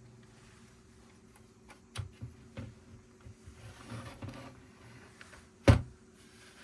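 Plastic Lego bricks being handled: a run of small clicks and rattles, then one sharp, much louder click a little over three-quarters of the way through.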